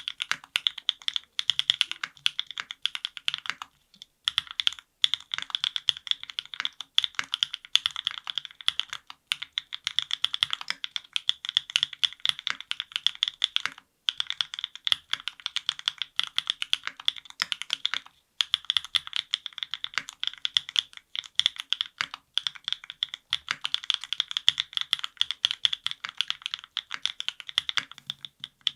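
Fast continuous typing on a NEO70 aluminium custom mechanical keyboard built with no foam and a carbon plate, with lubed Gateron Milkshake linear switches and GMK keycaps: a dense patter of bright, clacky keystrokes, with brief pauses a few times.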